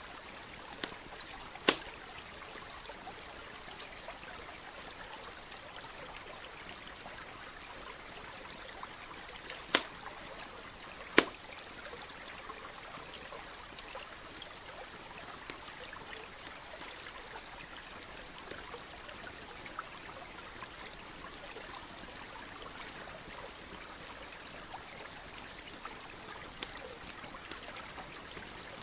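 Campfire crackling with scattered sharp pops, three louder ones about two, ten and eleven seconds in, over the steady trickle of a stream.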